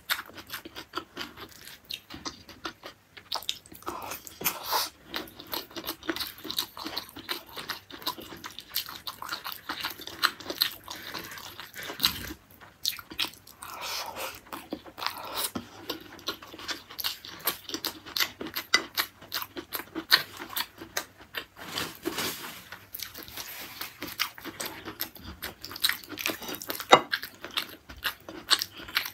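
Close-miked chewing and eating sounds: a person chews a mouthful of beef tendon curry, with dense irregular wet clicks and smacks several times a second.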